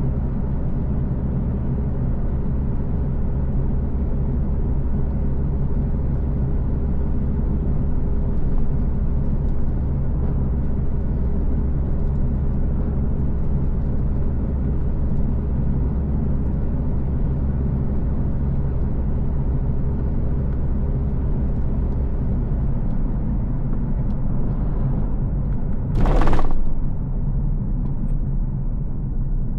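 A car driving: steady engine hum and road rumble. The low rumble shifts a little past the two-thirds mark, and a brief loud noise cuts through near the end.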